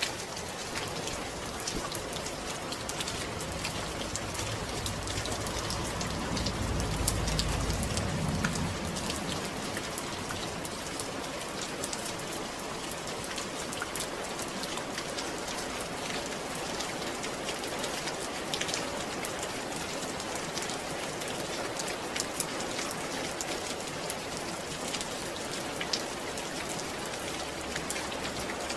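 Steady rain falling, with many small drop ticks. A low rumble swells about six seconds in and fades by about nine.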